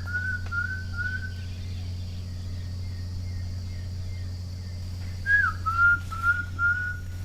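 A person whistling a call to bring monkeys: two phrases, each a short falling note followed by four quick, even notes, the second phrase a few seconds after the first. A steady low hum and a high, even buzz run underneath, and the buzz stops shortly before the second phrase.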